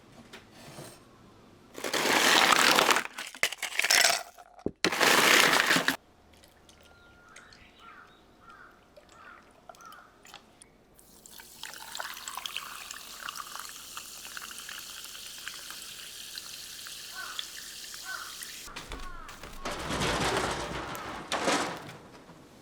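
Water poured and splashing in loud bursts about two seconds in, around five seconds in and near the end, with a steadier stretch of running water in the middle.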